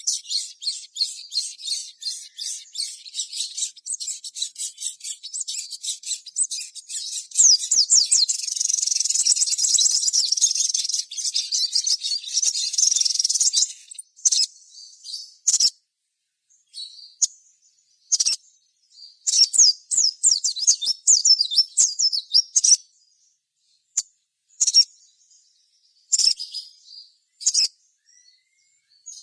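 Sogon (sogok ontong) songbird singing in fast, high-pitched chattering trills and chirps. The song runs almost without a break for the first half, then comes in short scattered phrases with pauses between them.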